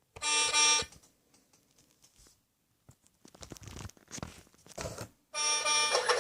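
Toy power tool sound effects: a short two-part electronic tone, then handling clicks and rustling, and near the end a sustained buzzy electronic sound starts.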